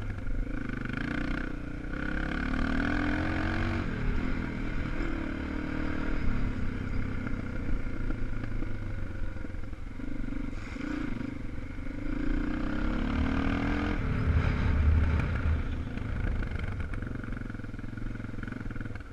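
250 cc single-cylinder enduro motorcycle engine running on a dirt track, its pitch climbing under acceleration and dropping back several times.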